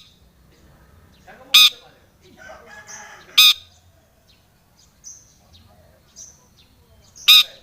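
Long-tailed shrike (cendet) singing: three short, loud, harsh screeches, with softer chattering and thin high twitters between them.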